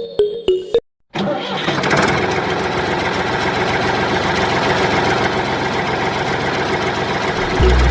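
Small electric motor of a homemade mini concrete mixer running steadily with a dense whirring, gear-driven rattle, starting about a second in after a short silence.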